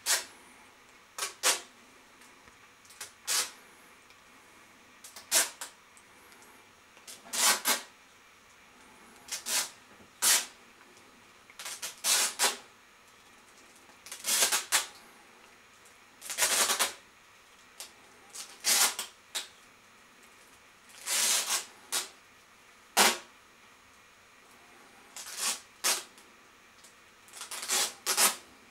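Packing parcel tape being pulled off its roll in short, loud rips, over and over, one every second or two and sometimes two in quick succession.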